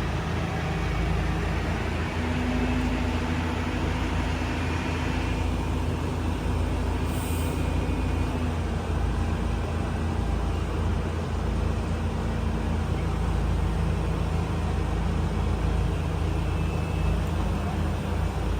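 Heavy machinery engine running steadily with a deep, even rumble, and a faint held whine over it for several seconds early on that fades out about halfway through.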